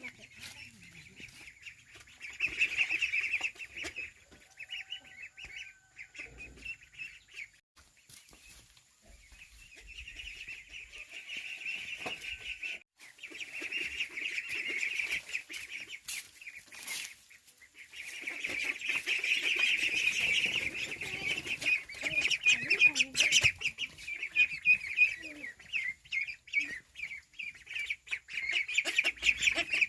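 A crowd of ducklings peeping together in a dense, high chatter that swells and fades in waves, loudest from a little past the middle on.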